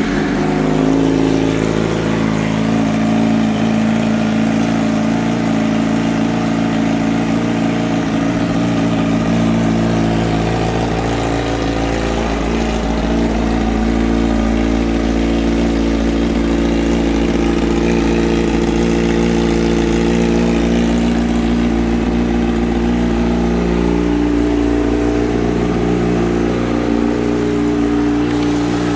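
2007 Yamaha YZF-R6S's inline-four engine, fitted with a GYTR aftermarket exhaust, idling steadily just after being started.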